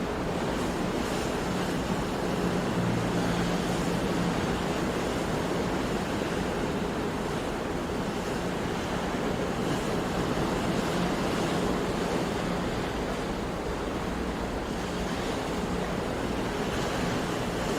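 Steady sea surf: waves washing continuously, with a low, even rush.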